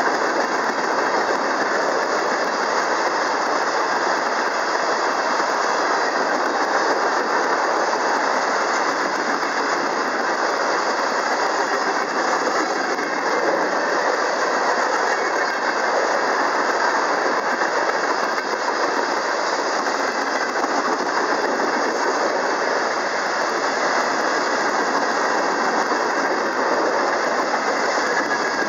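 Freight cars of a mixed freight train, tank cars and boxcars, rolling past at steady speed: continuous steel wheel-on-rail noise with rattling, unchanged throughout.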